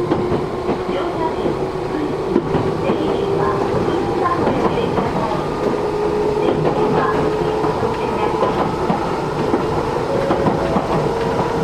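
Running sound heard inside a Matsumoto Electric Railway 3000 series electric train car under way: a steady rumble with a motor whine that steps up in pitch twice, and scattered knocks of the wheels over rail joints.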